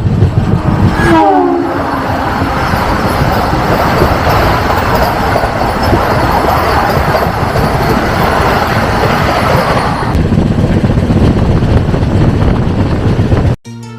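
Train running on the track, a loud, steady rush of wheel and rail noise, with a short horn blast about a second in. The sound cuts off suddenly shortly before the end.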